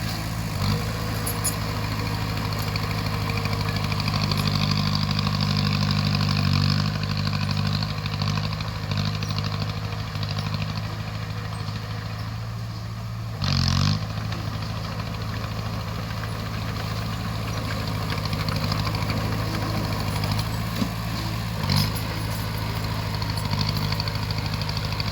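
Bulldozer's diesel engine running steadily, with a short, louder burst about halfway through.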